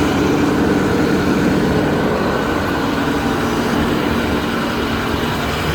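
Bucket truck's engine running steadily at the raised PTO idle that drives the boom hydraulics while the boom is being lowered into its cradle; the steady hum steps slightly lower about two seconds in.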